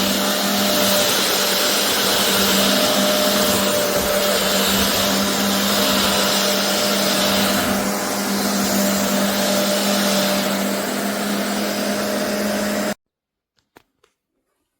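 BISSELL Revolution HydroSteam carpet cleaner's suction motor running steadily, a loud rushing whir over a constant hum. It cuts off suddenly about thirteen seconds in.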